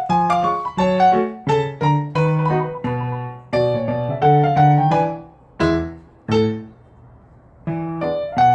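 Piano music: single notes and chords played at a moderate pace, with a brief pause near the end before it resumes.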